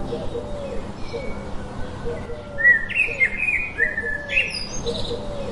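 Birds calling: a run of loud, sharp chirps in the middle, over a short lower call that repeats about once or twice a second throughout.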